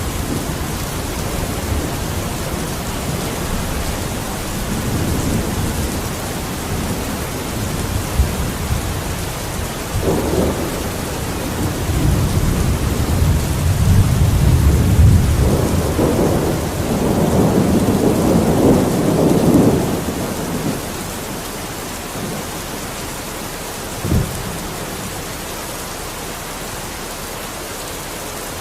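Steady rain with low, rolling thunder: the rumble swells from about ten seconds in, is loudest around two-thirds through, then fades. A short low thump follows near the end.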